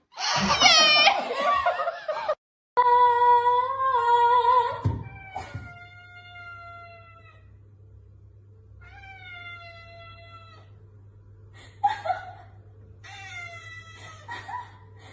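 Cats meowing and yowling: a loud, rough cry in the first two seconds, then several long, drawn-out meows a few seconds apart.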